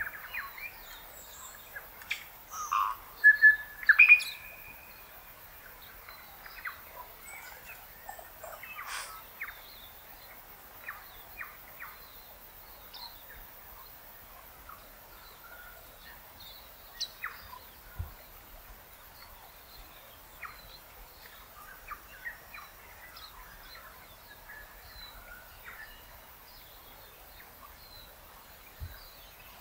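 Wild birds calling and chirping, with several loud calls close together a few seconds in and scattered short chirps after, over a faint steady hiss.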